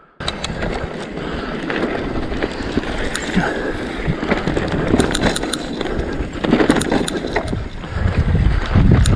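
Mountain bike ridden over rough, rutty moorland single track: steady tyre noise on the dirt with frequent sharp rattles and knocks from the bike, starting abruptly just after the start and with more low rumble near the end.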